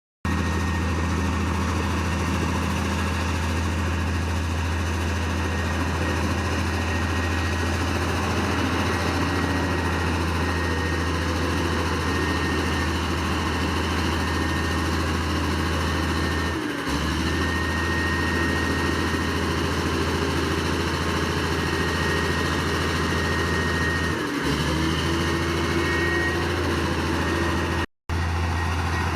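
Heavy diesel engine of earth-moving equipment running steadily, with a thin high whine over the engine note. The sound dips briefly twice and drops out for an instant near the end.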